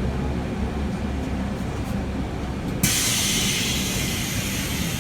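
Steady low rumble of a moving vehicle, then a loud hiss that starts suddenly about three seconds in and holds.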